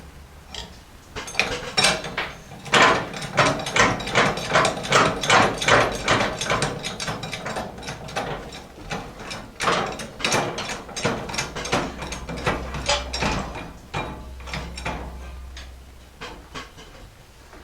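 A ratchet mechanism clicking over and over in long runs of quick, even clicks, the ratcheting of a tool or lift being worked on the quad.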